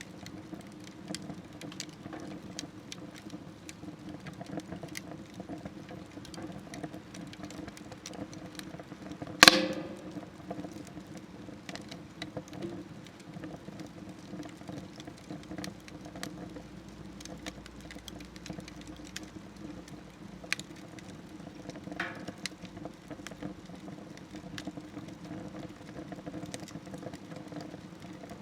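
Wood fire crackling in a smokeless wood stove: a steady low rush of burning with scattered small pops and snaps. A loud sharp knock with a short ringing tail about a third of the way in, and a smaller one later.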